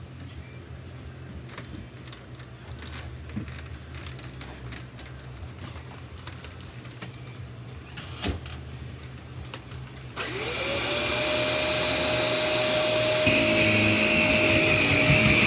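Shark Rotator Lift-Away Professional vacuum cleaner switched on: its motor spins up with a rising whine that settles into a steady tone over a rushing hiss, growing louder a few seconds later. Before it starts, a few light clicks and knocks of handling.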